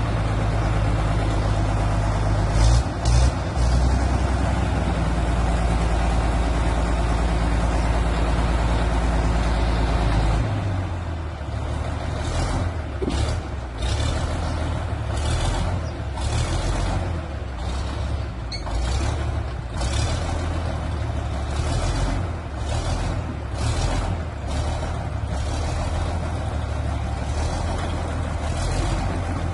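A heavy diesel crawler-tractor engine runs steadily and loud. About ten seconds in it eases off to a lower, rougher note, and short sharp noises then come every second or so.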